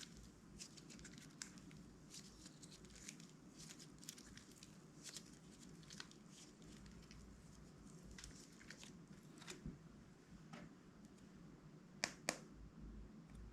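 Faint, scattered sticky crackles and small clicks of clear slime being handled and mixed by hand, with two sharper clicks near the end.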